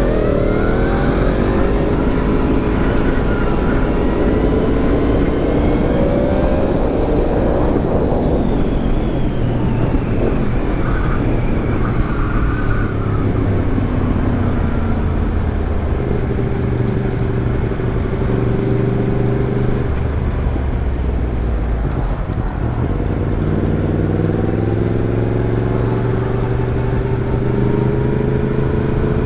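Yamaha MT-10's crossplane inline-four running through an Arrow aftermarket exhaust during a ride. The engine pitch rises over the first several seconds under acceleration, then eases off and holds steadier through the middle. It dips briefly and climbs again near the end.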